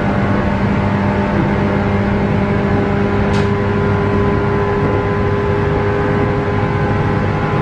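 Running noise inside a 117 series electric train car at speed: a loud, steady rumble of wheels on rail with the traction motors' whining tones over it. A brief sharp click about three seconds in, and the tones shift a little near five seconds.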